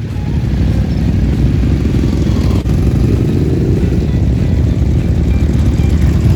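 Classic motorcycle engines running loud and steady, with a short break about two and a half seconds in.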